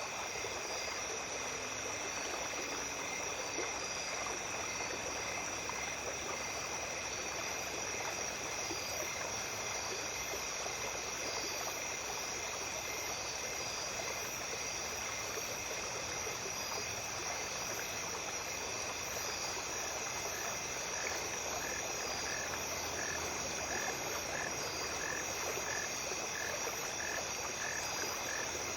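Small brook flowing steadily at night, with insects trilling continuously in high, even tones. From about twenty seconds in, a short call repeats steadily, somewhat more than once a second.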